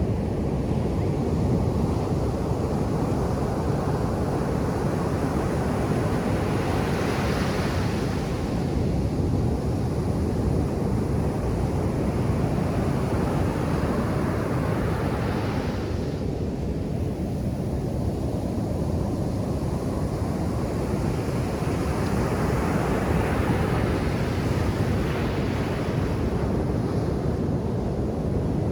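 Ocean surf on a beach: a steady low rumble of water, with the hiss of a breaking wave swelling up and washing away three times, about every eight seconds.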